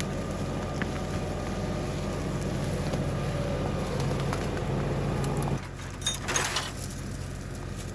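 LS XR3135 diesel tractor engine running steadily, then dropping to a lower, quieter run about five and a half seconds in. Soon after comes a short burst of noise lasting under a second.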